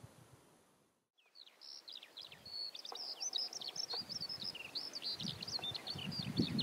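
Songbirds chirping and trilling at dawn, many quick varied notes overlapping, starting about a second and a half in after a brief near-silence. Low rumbling bursts join in near the end.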